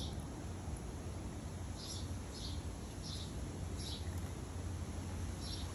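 Quiet ambience: a steady low hum with about six faint, short high chirps scattered through it.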